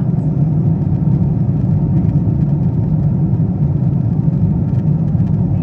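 Steady low rumble and rush of a Boeing 777-200ER in flight, heard inside the passenger cabin: engine noise and airflow during the descent.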